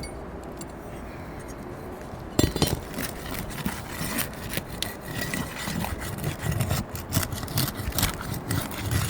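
Fiberglass asphalt roof shingles being pulled loose: rough scraping and crackling with many small clicks, starting suddenly about two and a half seconds in. The shingles are brittle and are tearing as they come free.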